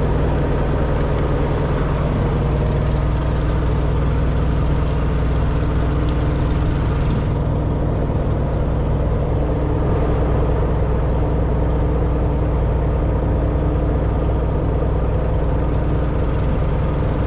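Heavy truck engine idling steadily, with a light hiss above it that stops about halfway through.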